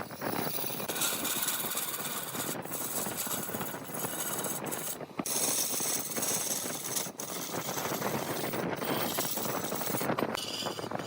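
Large wood lathe running with a turning tool cutting into the spinning wood: a steady grinding and scraping noise that breaks off briefly about five times.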